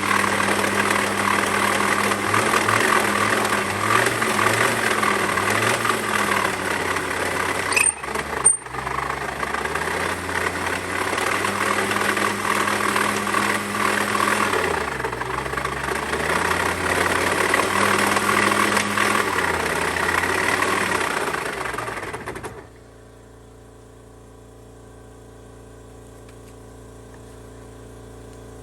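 Honda Live Dio (AF34) 49cc two-stroke scooter engine running with the abnormal engine noise it is being checked for, its speed wavering slightly. Two sharp clicks with a brief dip come about eight seconds in, and the engine cuts off abruptly about 22 seconds in, leaving a faint steady hum.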